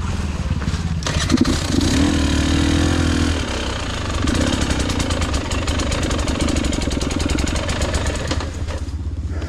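KTM EXC 300 two-stroke dirt bike engine revving in bursts, easing off near the end.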